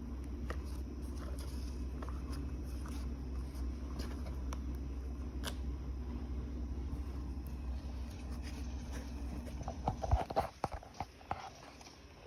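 Turbo fan running with a steady low hum, with light clicks and rattles over it. The hum cuts off about ten seconds in, followed by a few louder clatters and knocks.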